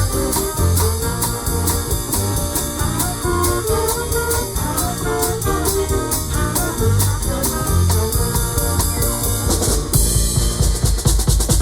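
Live band playing an instrumental passage with drum kit, guitar and bass. About ten seconds in, cymbals crash and the drums come to the fore.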